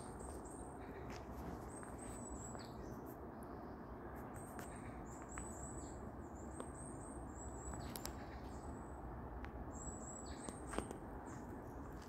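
Small birds calling: runs of three to five very short, high chirps, each falling in pitch, repeated every second or two over steady low background noise. A couple of sharp clicks stand out, the loudest near the end.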